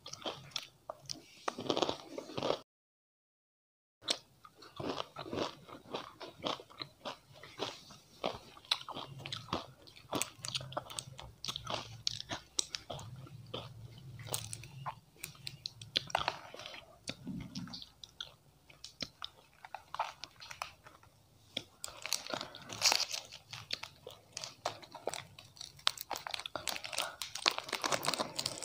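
Close-up crunching and chewing of chocolate and wafer snacks, a dense run of small crisp crunches with brief total silence about three seconds in. A plastic wrapper crinkles near the end as it is torn open.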